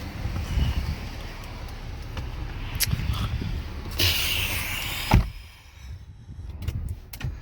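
Low rumbling background, then a car door shutting with one heavy thud about five seconds in. After the thud it goes much quieter, as inside the closed car, with a few light clicks.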